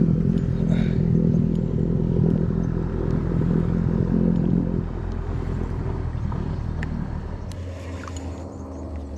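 Motorboat engine running close by, a steady low rumble that fades away over the second half as the boat moves off.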